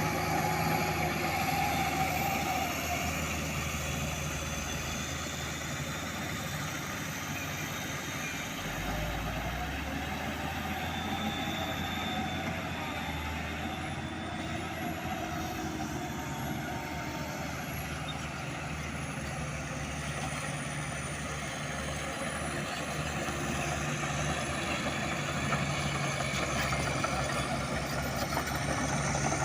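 Diesel dump truck engine running steadily, with a thin high whine above it.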